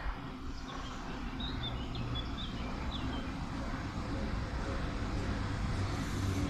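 Low rumble of an approaching train, growing steadily louder, with a few short high chirps in the first few seconds.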